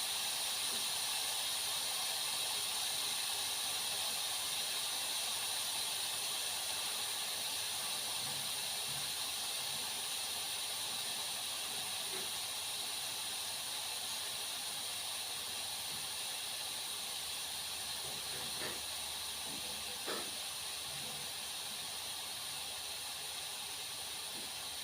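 Food frying in a pan: a steady sizzle that eases slightly over time, with a couple of faint knocks later on.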